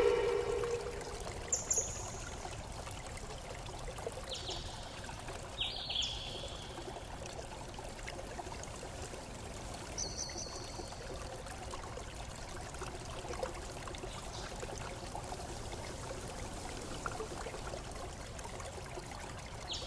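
Water flowing steadily, like a stream or small waterfall. A few short, high chirps with falling pitch sound over it in the first half, and a pitched tone with overtones fades out in the first second.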